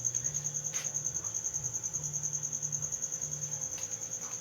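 A cricket chirping steadily in a high-pitched, evenly pulsed trill, with a faint low hum beneath it.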